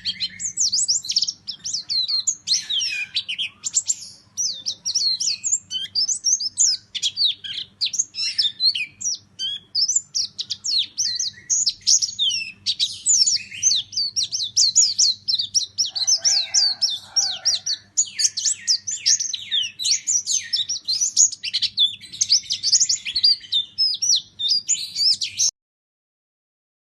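Pleci (white-eye) singing a rapid, almost unbroken run of high chirps and twittering trills in the 'nembak' style, over a steady faint low hum. The song cuts off suddenly near the end.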